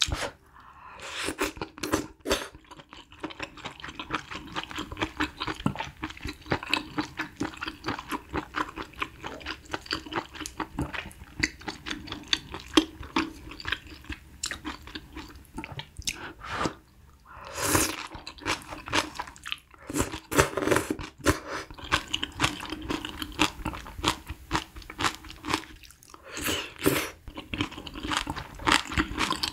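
Close-miked chewing: wet, crisp crunching of coriander kimchi, many small crunches in quick succession.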